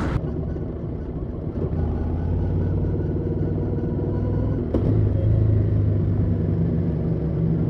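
Harley-Davidson Street 750's liquid-cooled V-twin engine running steadily while the motorcycle is ridden at road speed, heard from the rider's seat. It gets louder about five seconds in.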